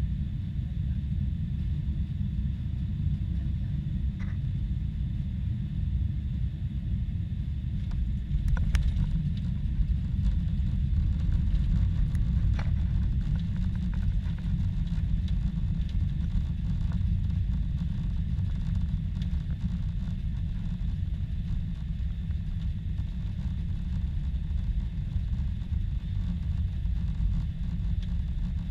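Boeing 747-400 airliner in motion, a steady low rumble from its engines and airflow, with a few faint clicks about a third of the way in.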